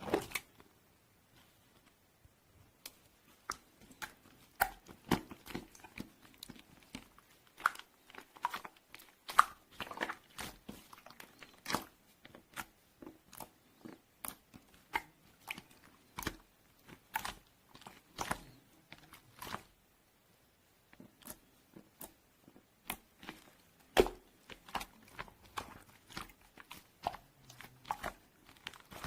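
A person chewing crunchy food close to the microphone: irregular, sharp crunches and clicks, with a pause of about a second about two-thirds of the way through.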